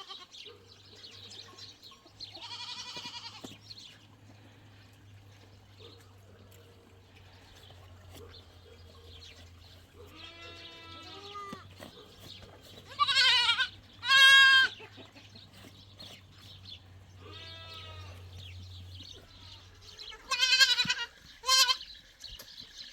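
Goats bleating, about seven wavering calls spread out, the loudest two close together about halfway through.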